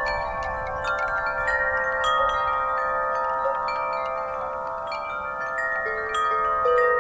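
Metal wind chimes ringing in a breeze, with frequent light strikes and many overlapping tones ringing on; a lower tone joins in near the end.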